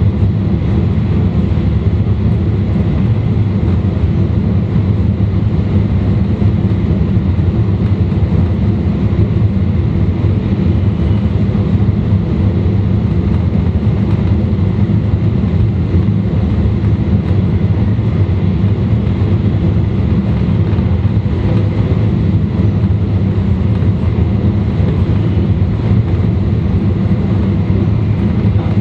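E2 series Shinkansen train running steadily at speed, heard from inside a car's vestibule. It is a constant deep rumble of wheels, track and air, with a few faint steady tones above it and no change in pitch.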